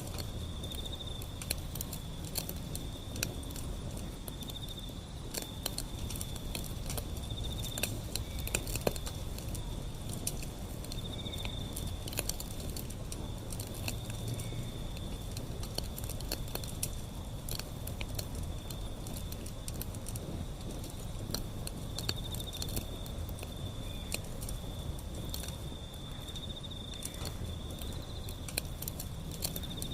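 Wood fire burning, crackling with irregular sharp pops over a low rumble of flame. A steady high-pitched trill runs underneath throughout.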